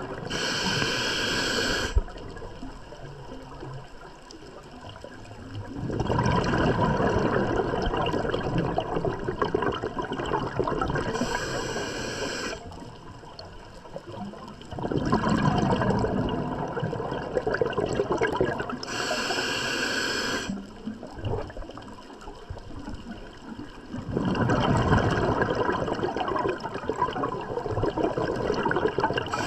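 Scuba diver breathing through a regulator underwater: short hissing inhalations, each followed a few seconds later by a longer rush of exhaled bubbles, repeating about three times at an even pace.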